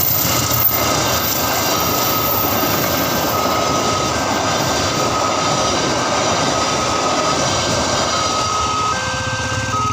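Logawa passenger train running past over a level crossing: a loud, steady rush of wheel and carriage noise. The crossing's electronic warning alarm keeps sounding over it, a tone that switches between two pitches about every second. The train noise eases near the end.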